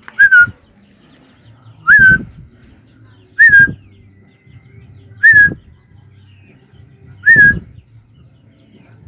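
A person whistling five short, clear notes, each a quick rise and fall in pitch with a breathy puff underneath, about every two seconds, calling to a hand-fed African lovebird chick.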